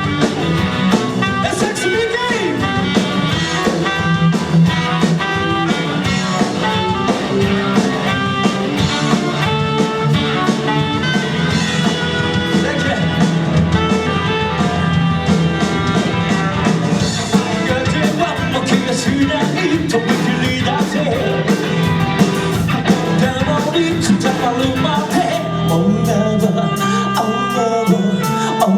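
Live rock band playing: a singer over electric guitar, bass and drum kit, loud and continuous.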